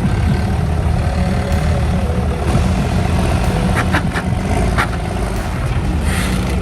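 Large pickup truck engine running loud and steady, a heavy low note with no revving swings. A few short knocks sound about four to five seconds in.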